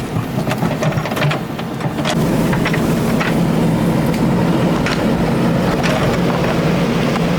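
Excavator at work: its diesel engine running under load with scattered metal clanks. The engine gets louder and steadier about two seconds in.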